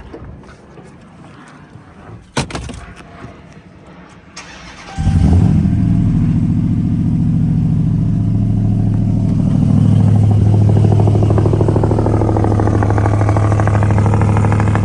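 Modified Ram TRX's supercharged 6.2-litre V8 with aftermarket headers, cold-started: a click about two seconds in, then the engine cranks briefly and fires about five seconds in and runs at a steady idle. The exhaust is quiet even with the headers, with no ticking from a leaking manifold or gasket.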